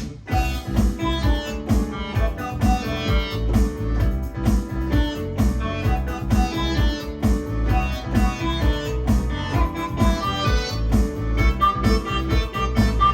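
Yamaha Electone ELS-01 electronic organ playing a pop arrangement: melody and chords over a steady automatic rhythm and bass line, with a brief break right at the start.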